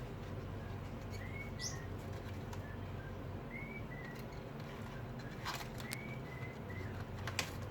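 A pet parrot giving short soft chirps, each a quick rising note with a shorter one after it, repeating about once a second, with a few brief rustles or taps in the last seconds.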